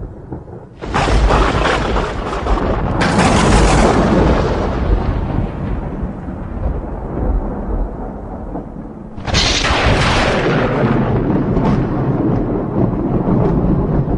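Thunder in a rainstorm: a sharp crack about a second in and another about two seconds later, rolling off into a long rumble. A third crack and rumble come a little after nine seconds, over a continuous low rumble.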